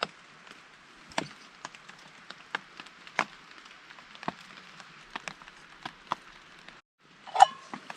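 Rain falling with a steady hiss, and irregular drops tapping sharply on a nearby surface. Near the end there is a short gap, then one brief louder sound.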